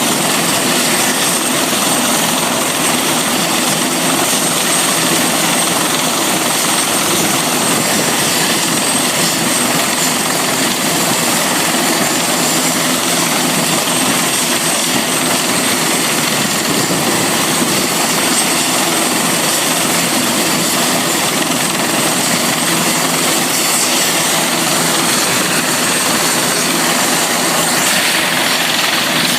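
Helicopter running steadily, a loud continuous rotor and engine noise with a faint high whine held throughout.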